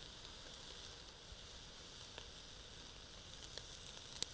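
Marinated T-bone steaks sizzling faintly on a charcoal grill, with a few small pops and one sharper click near the end.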